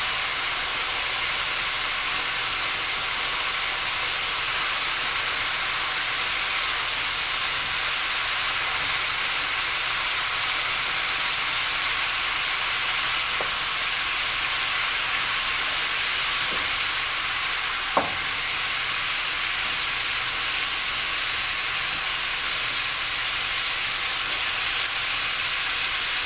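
Mixed chopped vegetables sizzling steadily in hot oil in a pan while being stirred. A few light clicks, and one sharper tap about two-thirds of the way through.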